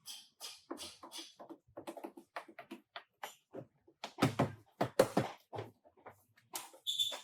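An irregular series of knocks and clunks, with several strong ones clustered about four to five seconds in and a short high squeak near the end.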